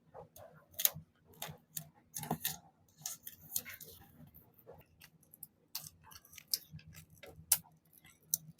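Irregular clicks, taps and a brief paper rustle from hands working paper and craft supplies on a desk while making a journal spread, over a faint steady low hum.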